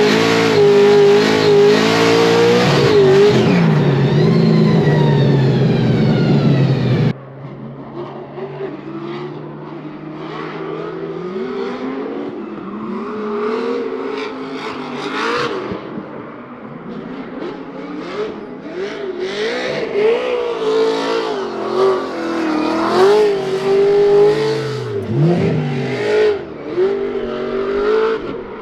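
Scion FR-S drift car's swapped engine revving hard, pitch swinging up and down with the throttle. About seven seconds in the sound cuts to a quieter, thinner recording of the engine still revving up and down.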